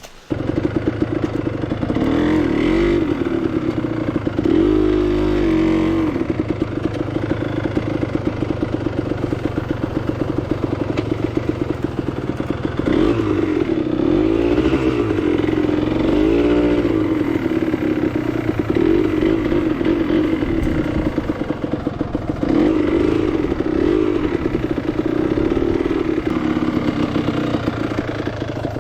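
Enduro motorcycle engine comes in suddenly and runs loudly throughout, its pitch rising and falling several times as it is revved and eased off while riding.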